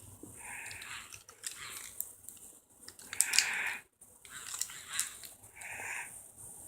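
Dog at play biting at a toy, with three short breathy huffs and scattered small clicks.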